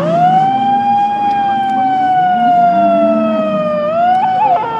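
A man's long drawn-out call through a loudspeaker, held on one note that slides slowly down in pitch for about four seconds, then lifts and wavers near the end.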